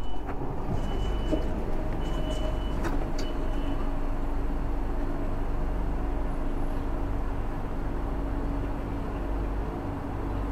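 BTS Skytrain electric train pulling away from an elevated station platform: a steady rumble with a motor hum, and a few short high beeps in the first few seconds.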